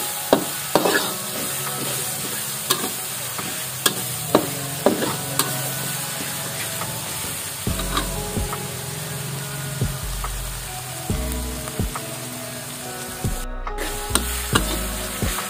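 Green-chilli sambal sizzling in oil in a wok while a metal spatula stirs it, scraping and clinking against the pan about once a second. The paste is being fried until its aroma rises.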